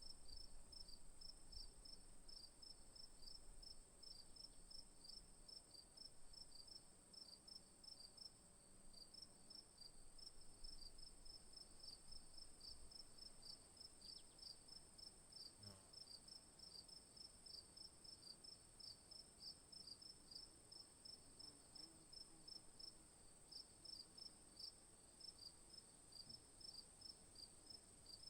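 Faint insect chorus: a steady high buzz with rhythmic chirping, about two to three chirps a second.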